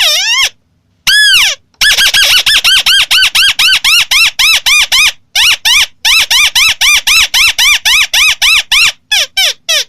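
White-browed crake calling: a loud, fast series of repeated rising-and-falling notes, about five a second. After two separate opening notes the series runs on, breaks off briefly past the middle, and ends with a few quicker notes.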